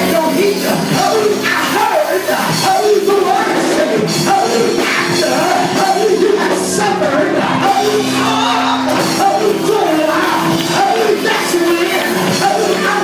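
Live gospel church music with long held chords and a voice singing and shouting over it.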